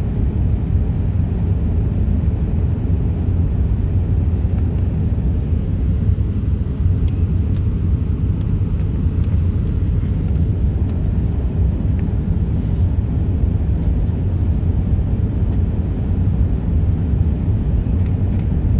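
Steady low rumble of an Airbus A380's engines and airflow heard from inside the passenger cabin.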